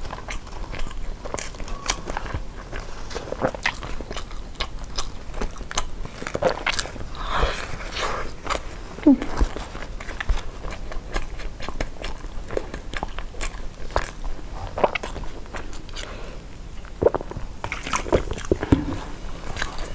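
Biting and chewing a zongzi, a glutinous rice dumpling, with many short wet mouth clicks and smacks.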